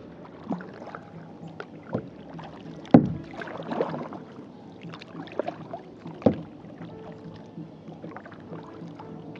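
Kayak paddle strokes: a series of splashes and knocks as the paddle blades dip into the water, irregularly spaced, the loudest about three seconds in.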